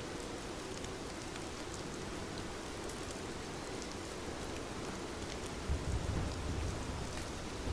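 Steady rain, with scattered drops ticking. A brief low rumble comes about six seconds in and is the loudest sound.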